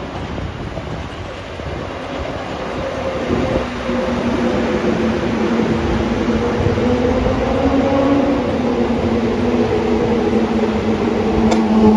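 A train running past, its rumble growing louder over the first few seconds as a steady hum of several tones comes in on top, with a single sharp click near the end.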